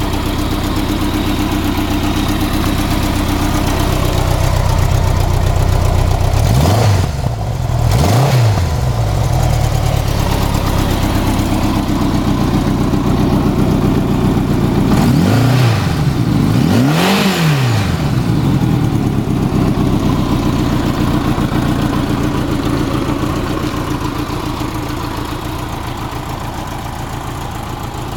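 1984 Honda Gold Wing GL1200's flat-four engine idling through its stock exhaust, blipped up and back down four times in two pairs, about seven and about fifteen seconds in. It grows a little quieter toward the end.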